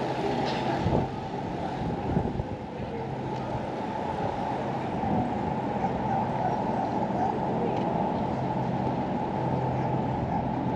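Steady low drone of an engine running, with a few constant low tones, over outdoor background noise. A couple of brief knocks come about a second in.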